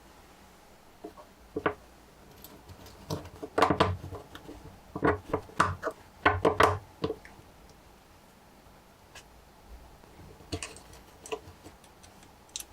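Lego Technic plastic parts being handled and pressed together: irregular clicks and short rattles, bunched in the middle, with a few scattered clicks near the end.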